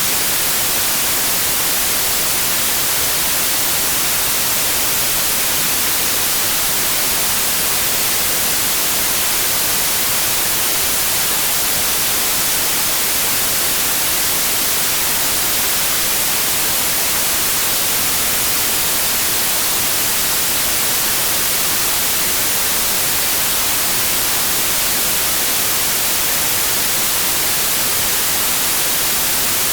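Steady white noise: an even, unbroken hiss with no tones or changes, brightest in the high end.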